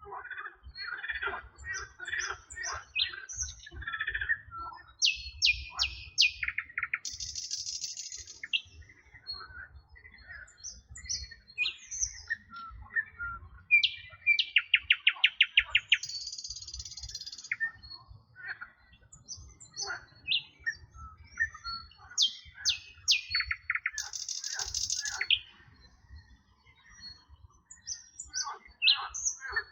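Several songbirds singing and calling at once: short chirps, whistled notes and high buzzy trills. A fast run of repeated notes, the loudest part, comes about halfway through.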